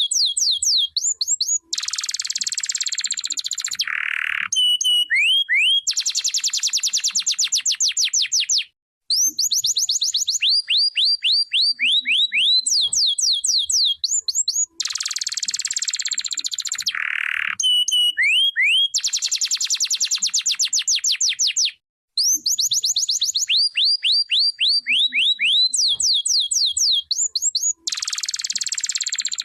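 Canary singing a long song of rapid trills of quick falling whistled notes, alternating with dense buzzy rolls. The same sequence of phrases comes round again about every 13 seconds, with two brief breaks.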